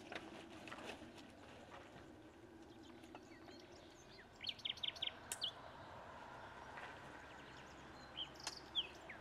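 Small birds chirping in short, quick runs of high notes, twice, over a faint steady outdoor hiss.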